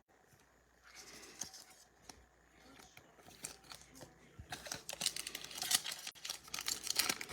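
A trading card pack's foil wrapper being torn open and crinkled, beginning about four and a half seconds in and growing busier toward the end; before that, only a few faint clicks of cards being handled.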